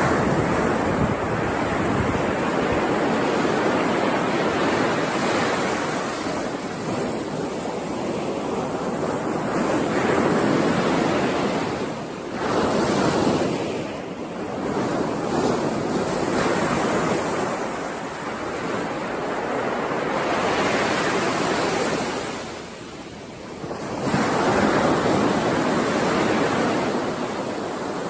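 Ocean surf: waves breaking and washing in one after another, the rush swelling and easing, with a brief lull about two-thirds of the way through before the next wave comes in.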